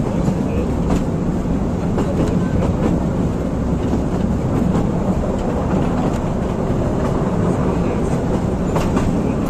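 Narrow-gauge (600 mm) train with open passenger coaches rolling along the track: a steady rumble of wheels on rails, with a few sharp clicks along the way.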